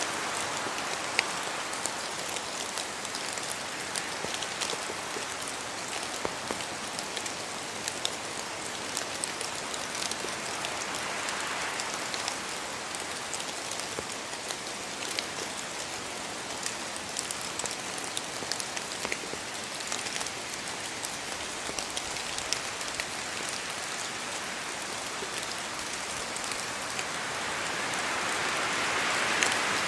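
Steady rain falling on forest trees, with many single drops landing sharply close by. Wind swells through it about twelve seconds in and more strongly near the end.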